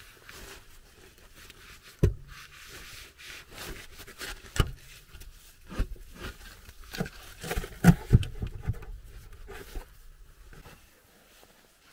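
Irregular knocks and thuds, about half a dozen over several seconds, with some light scraping between them, like things being handled and set down.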